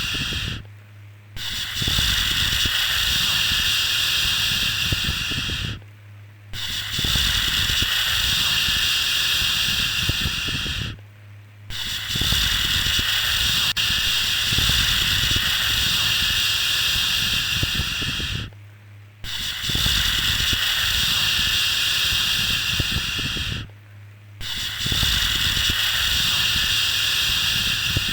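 Long, steady 'shhh' shushing sounds, each held for about four to seven seconds with a short break for breath between them. There are about five in a row, made to soothe a baby to sleep. A faint low hum runs underneath.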